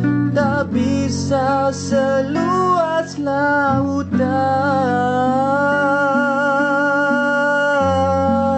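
Singing voice with acoustic guitar accompaniment: a wordless melodic run, then one long held note with a slight vibrato that ends near the end.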